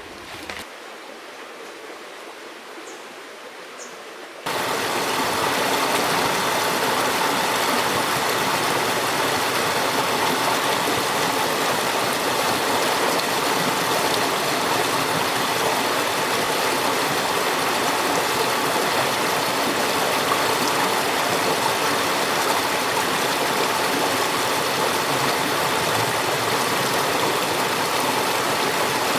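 Rushing river water, a loud steady wash that starts abruptly a few seconds in after a quieter stretch.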